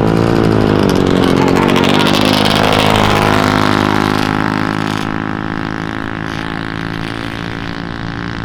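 Engines of small side-by-side UTVs (mini RZRs) revving hard down a drag strip. The pitch climbs and wavers at first, then holds a steady high drone that fades as they pull away.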